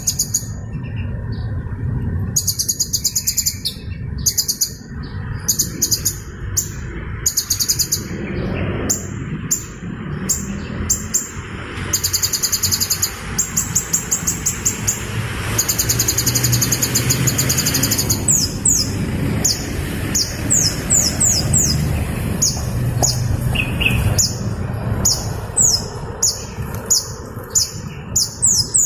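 Hummingbird calling: very high-pitched, rapid chattering trills in repeated bursts, giving way about two-thirds of the way in to quick, sharp chirps that fall in pitch, several a second.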